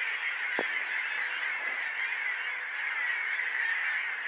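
A large flock of gulls calling all at once, a steady dense din of overlapping cries with no single call standing out.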